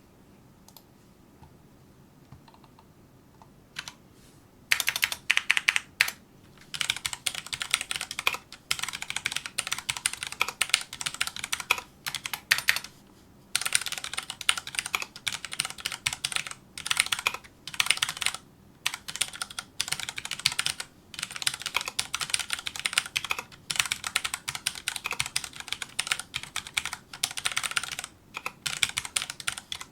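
Typing on a Filco Majestouch2 mechanical keyboard with Cherry MX Brown switches: fast runs of keystrokes broken by short pauses, starting about four and a half seconds in after a near-silent stretch.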